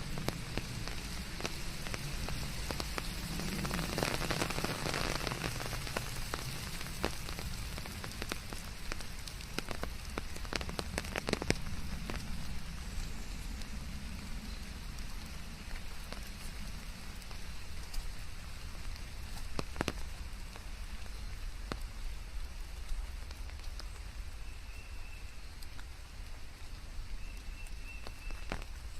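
Steady rain falling on leaves, with many individual drops ticking sharply over the hiss and the rain swelling briefly a few seconds in.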